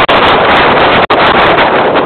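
Strong storm wind blasting the microphone in heavy wind and rain: a loud, steady rush of noise that cuts out briefly twice, at the start and about a second in.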